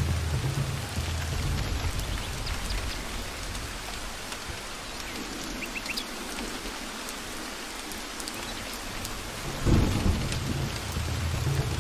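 Steady rain with low rolling thunder. The rumble fades away in the middle, then a sudden louder thunderclap comes near the end and the rumbling builds again.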